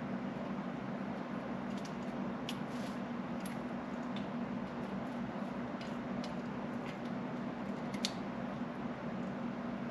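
Budgerigars making scattered short, high ticks and chirps, about nine in all, the sharpest about eight seconds in, over a steady low hum.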